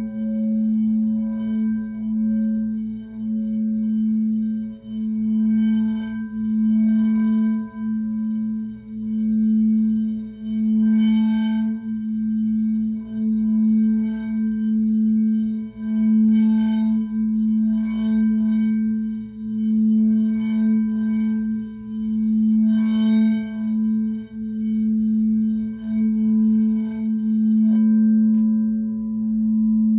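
Singing bowl sounding a steady low hum that swells and fades every second or two, with lighter strikes ringing higher notes over it, used for sound healing to clear residual energy.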